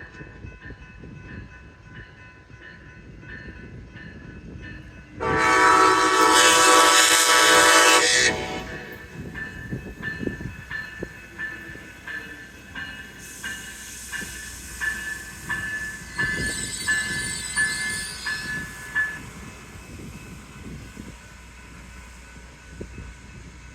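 Amtrak train passing: its horn sounds one long, loud blast about five seconds in, lasting about three seconds, then the wheels click over the rail joints in a steady rhythm.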